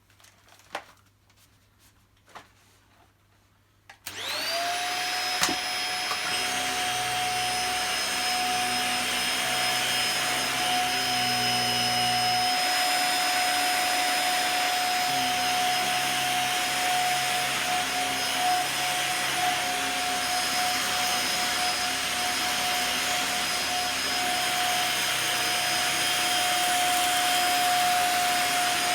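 A few light clicks, then about four seconds in a Dyson DC50 upright vacuum cleaner switches on. Its motor spins up quickly to a steady high whine and runs on as it is tested picking up sprinkled dirt from the floor.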